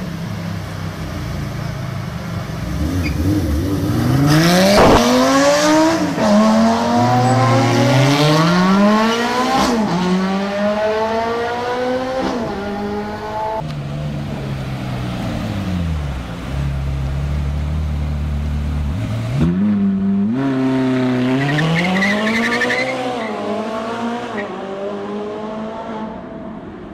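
Sports car engine accelerating hard through the gears, its pitch climbing and dropping sharply at each shift. It then slows with a falling pitch, runs low and steady for a few seconds, and climbs again near the end.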